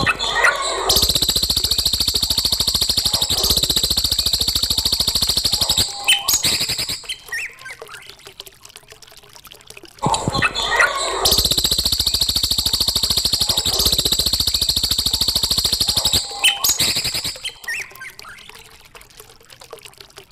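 Recorded songbird song used as a training master for young shamas. Each phrase opens with a few short chirps, runs into a fast, high trill held for about five seconds, and ends with more chirps. The same phrase plays twice, about ten seconds apart, as a loop.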